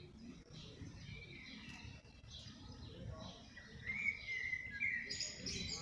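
Songbirds chirping and singing, with a louder warbling phrase about four seconds in, over a low rumble.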